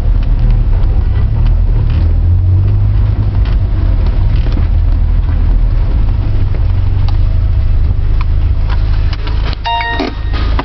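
Mitsubishi Lancer Evolution IX's turbocharged four-cylinder engine running under way, a steady heavy low rumble heard inside the cabin. Near the end, a brief high-pitched squeal.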